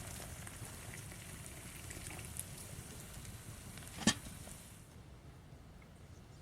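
Food sizzling in a pan over a campfire, a steady hiss with small crackles, broken by one sharp knock about four seconds in; the hiss drops away soon after.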